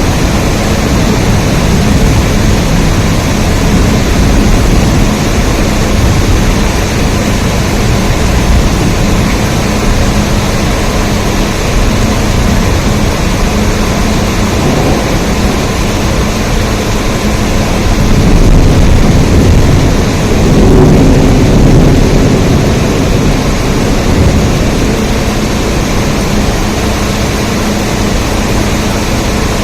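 Steady rain, a dense continuous hiss weighted toward a deep rumble, swelling briefly twice a little past the middle.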